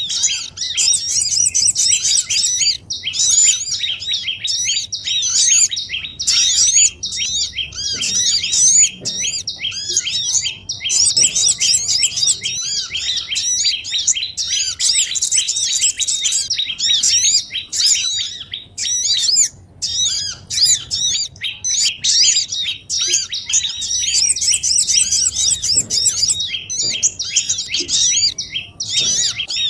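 Bird-lure recording of many small songbirds chirping and twittering fast and without pause, calls overlapping one another, in the manner of a noisy flock of small birds.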